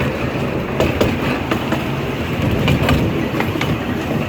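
Passenger car of a small steam-hauled excursion train rolling along the track, a steady rumble with irregular clicks as the wheels cross rail joints.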